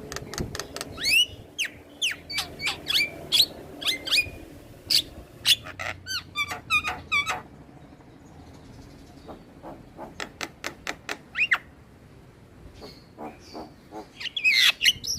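Javan myna singing in a rapid string of sharp whistles, squeaks and clicks. The string breaks off about halfway, goes on as a fainter, sparser run, then ends in a dense burst of calls.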